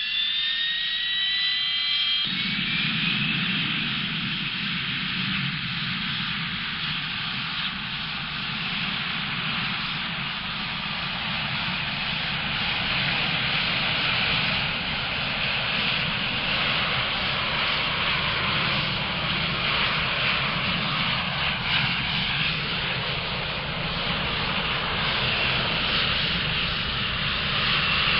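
Jet engine sound: a rising whine as it spools up over the first two seconds, then steady jet engine noise with a constant high whine.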